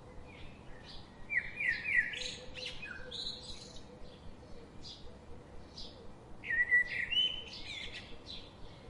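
Birds chirping: short high chirps repeat about twice a second, and two louder, longer chirping phrases come about a second in and again around six seconds in.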